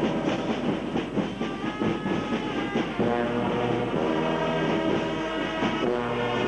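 Brass band playing held chords, the low notes shifting every second or so, with a rapid patter of taps under the first half.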